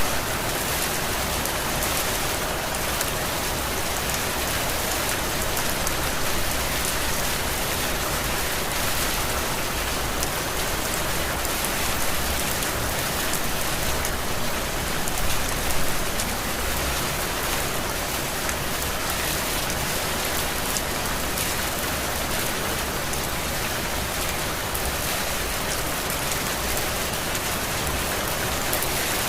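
Heavy rain falling steadily, a dense even hiss, with a brief swell about halfway through.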